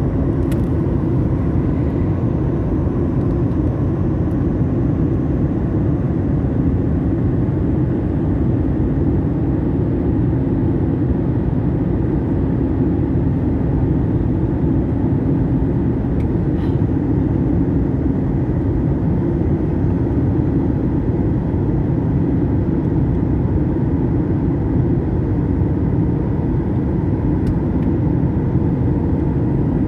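Steady drone of a jet airliner heard from inside the cabin during the approach to landing: engine and airflow noise with a constant low hum, unchanging throughout.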